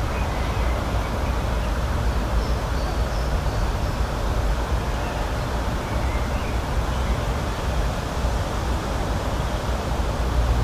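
Outdoor nature ambience: a steady rushing noise with a deep rumble underneath, and a few faint, short high chirps.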